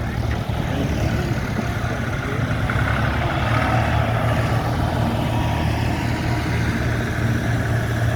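Heavy vehicle engine running steadily, a deep even drone that gets slightly louder about three seconds in.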